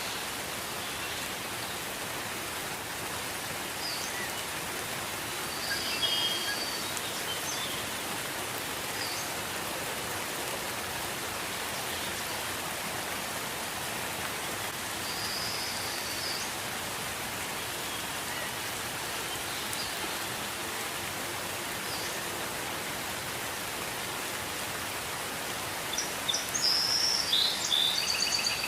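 Gentle rain falling steadily, an even hiss. Birds chirp briefly now and then over it, with a short flurry of several chirps near the end.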